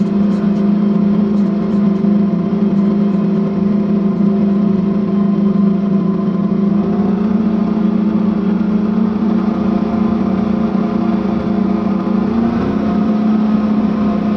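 Big Bud 16V-747 tractor's large diesel engine running steadily under load while pulling a chisel plow, with small shifts in pitch about halfway through and again near the end.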